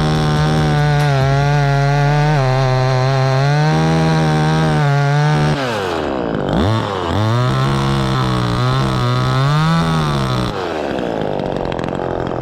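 Two-stroke chainsaw cutting the face cut (felling notch) into a black maple trunk at full throttle. About halfway through, the engine drops off briefly and revs back up for a second cut, then falls away from full revs near the end as the notch is finished, cut a little deeper than intended.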